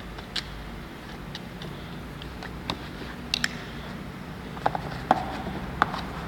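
Batteries being fitted into a handheld wireless microphone's battery compartment: a series of small irregular plastic clicks and taps, with a handful of sharper clicks in the second half.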